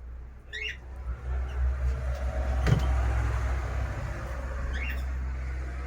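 A low steady rumble swells about a second in, with a sharp click near the middle, while small birds chirp briefly twice.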